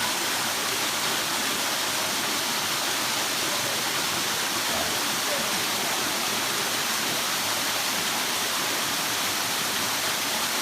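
Rushing water, a steady even hiss with little low rumble and no change in level.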